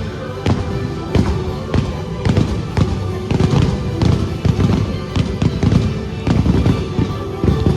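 Fireworks bursting in quick succession, many sharp bangs and crackles, over the loud music of a holiday fireworks show.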